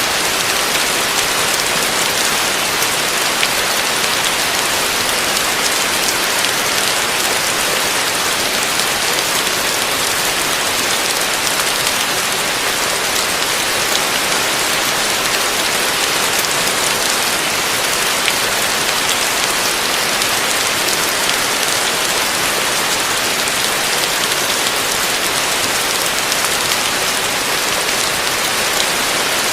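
Heavy rain falling steadily: a dense, even hiss of drops with faint scattered ticks of single drops.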